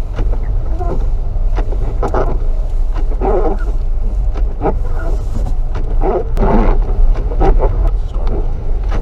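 Strong gusting wind buffeting the microphone in a blizzard: a constant low rumble with irregular louder gusts.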